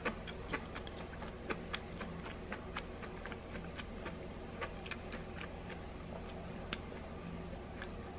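Someone chewing crunchy stir-fried garlic scapes with fish cake close to the microphone: irregular crisp crunching clicks a few times a second, over a steady low hum.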